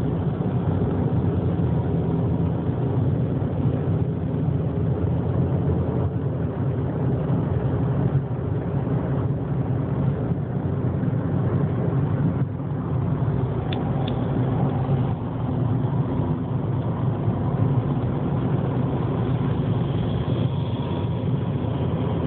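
A motor vehicle's engine running steadily with a low, even hum and no change in speed.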